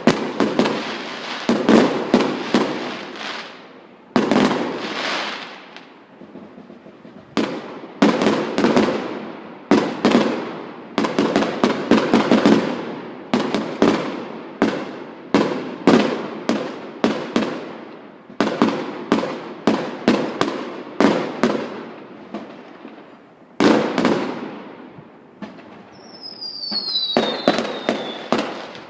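Fireworks going off in quick succession: sharp bangs, several a second at times, each trailing off in crackle and echo, with short lulls between volleys. Near the end, a couple of high whistles glide downward in pitch over the bangs.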